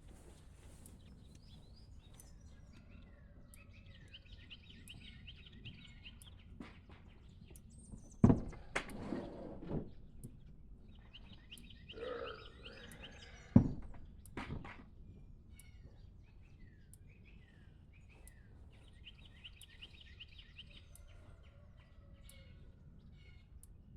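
Songbird singing a short song with a rapid trill, repeated about every seven or eight seconds, with other scattered chirps. Two sharp thumps stand out, about eight seconds in and again about five seconds later, with some rustling between them.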